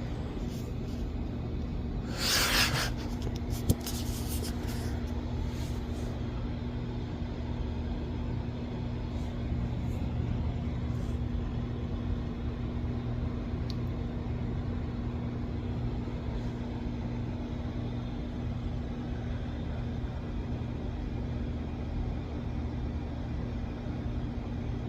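A steady low mechanical hum. A brief noisy rustle comes about two seconds in, followed by a single click.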